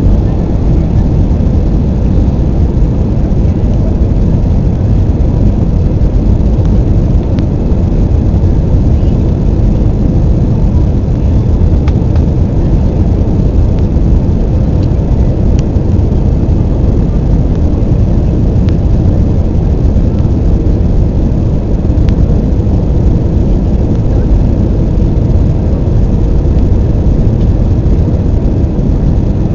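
Airbus A320 cabin noise in flight: a loud, steady, low rumble of airflow and jet engines, with a faint steady hum.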